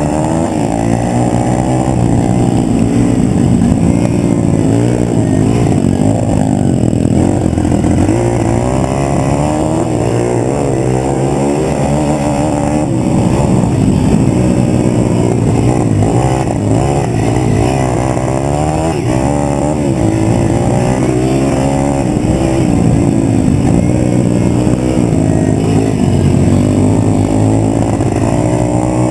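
Pit bike engine being ridden, its revs rising and falling over and over as the throttle is worked.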